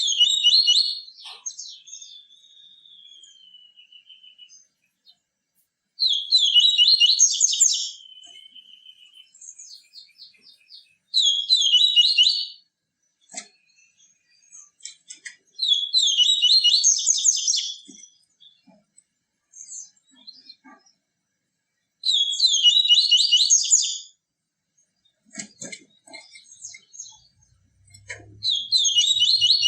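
Papa-capim seedeater singing its 'tui tui viviti' song: a fast, high-pitched phrase of about two seconds, repeated six times with short pauses between. After the first phrase a thin, fainter drawn-out note trails off.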